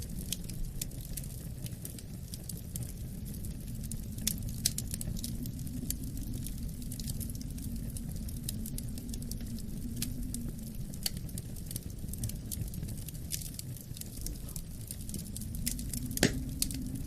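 Wood fire crackling with scattered sharp pops, one louder pop near the end, over a low, steady wind rumble that rises and falls slightly.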